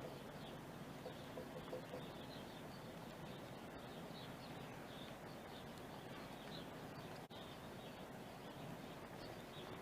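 Small birds chirping faintly, short scattered calls over a steady outdoor background hiss.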